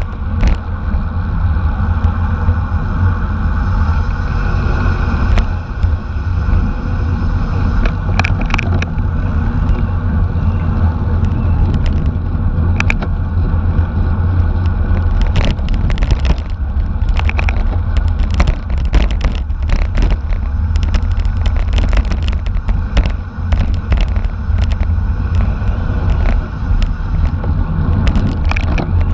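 Steady wind and road rumble on a camera mounted on a racing bicycle, with scattered sharp clicks and rattles from the bike and road surface.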